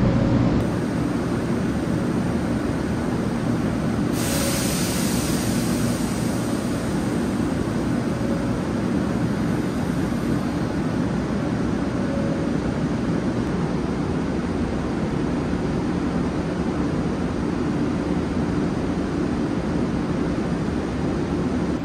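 JR West 500 series Shinkansen running, heard from inside the car: a steady rumble and rush of running noise, with a brighter hiss joining about four seconds in.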